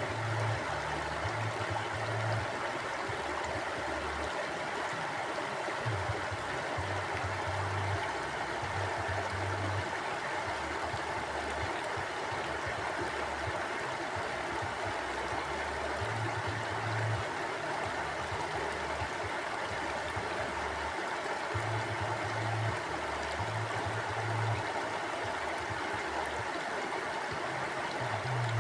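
Mountain river flowing steadily, a continuous rushing of water with low rumbles coming and going underneath.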